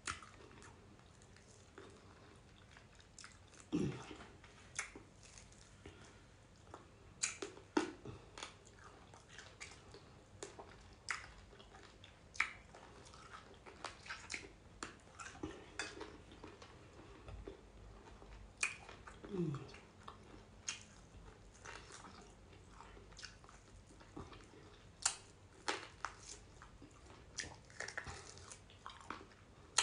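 Faint close-up chewing and mouth noises of a person eating meat by hand: scattered wet smacks and clicks, with a couple of brief low hums that fall in pitch.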